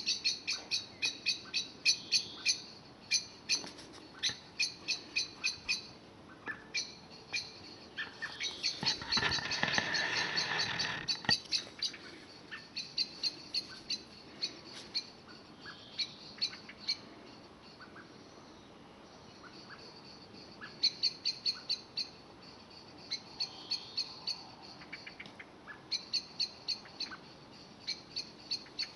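A bird chirping over and over, two to three short high chirps a second, in bouts with pauses between. About nine seconds in, a broad rushing noise swells for some three seconds.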